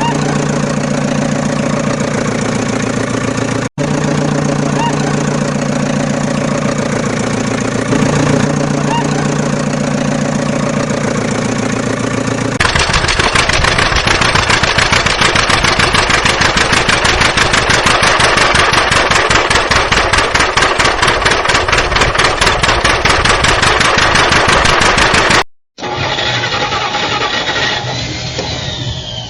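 Engine sounds in abruptly cut segments. First a steady idling hum; then, about halfway through, a harsher, faster-pulsing run; then, after a short break near the end, a duller running sound that fades.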